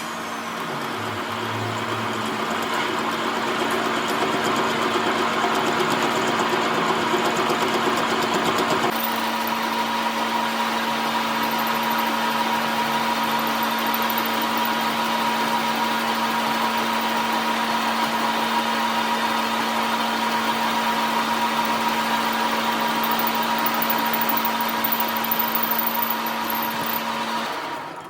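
A motor-driven machine running steadily, with a constant hum under a noisy hiss. Its sound shifts about nine seconds in, and it cuts off near the end.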